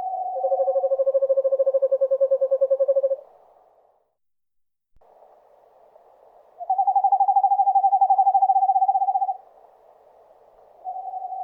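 Eastern screech owls giving their long, level trills on one pitch. A higher trill runs into a lower one over the first three seconds, another trill follows about halfway through, and a third begins near the end.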